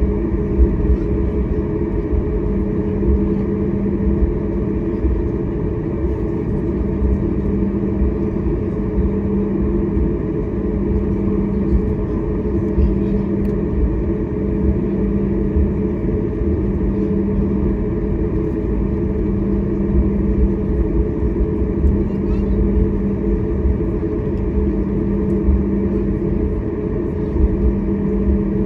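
Steady jet engine drone inside the cabin of a Boeing 737 MAX 8 airliner, with its CFM LEAP-1B turbofans running: a constant low rumble with a low hum that swells and fades every couple of seconds.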